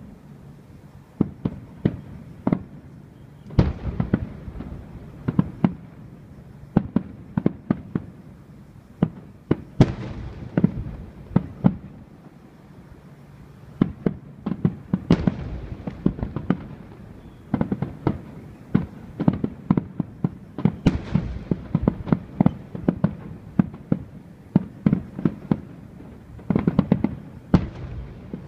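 Fireworks display: a long run of bangs, many in quick clusters, each with an echoing tail.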